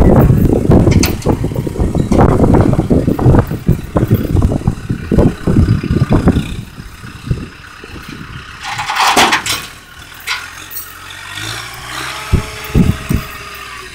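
A vehicle engine running loud and rough with rattling for about the first six seconds, then quieter, with a few knocks near the end.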